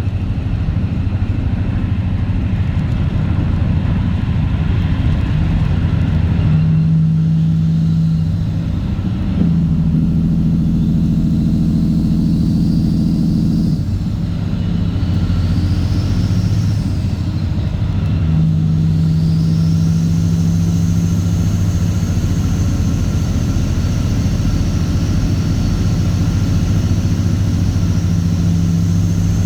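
Straight-piped Caterpillar C15 ACERT inline-six diesel in a Kenworth W900 running under way, loud and steady. The engine note changes in steps several times.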